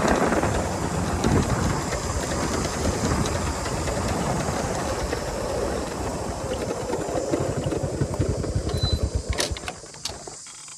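Honda 125 motorcycle engine running under way, its rapid firing pulses mixed with wind rush. A few sharp clicks come near the end, then the sound drops away sharply, leaving a quieter low steady hum.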